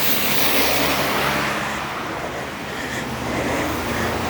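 A car driving past on the plowed street, its tyres hissing on the road surface, rising and easing in loudness.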